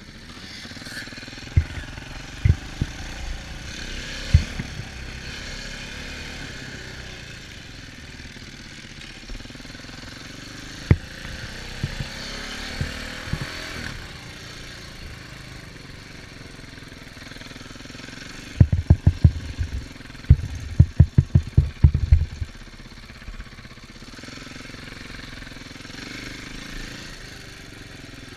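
Off-road vehicle engine running, its pitch rising and falling as it is ridden, with scattered low thumps and a quick run of heavy thumps about two-thirds of the way through.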